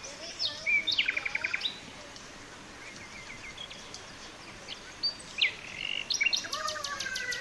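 Wild birds calling: a quick run of rapidly repeated chirps about a second in, then a longer stretch of chirps and trills over the last two and a half seconds, over a steady background hiss.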